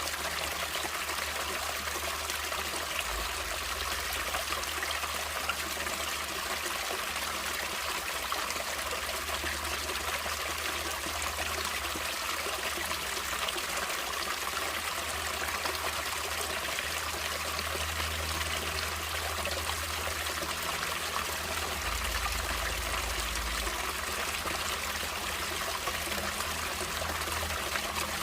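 Natural flowing water running steadily, an even rushing sound with no breaks or changes.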